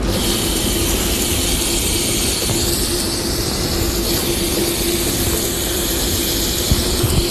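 Portable grill cooking ham, with a steady loud hiss and a low, even hum beneath it.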